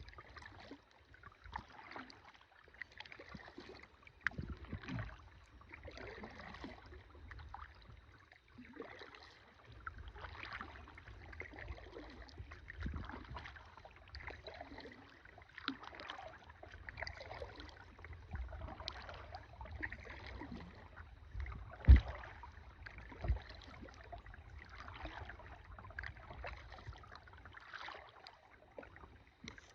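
Kayak paddling: the blades dip and pull through the water again and again, with splashes and drips, over a low rumble. Two-thirds of the way through comes a sharp knock, the loudest sound, with a smaller one just after.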